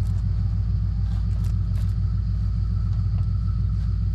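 Ford F-250 pickup's engine idling steadily close by, a constant low, pulsing rumble, with a few faint clicks over it.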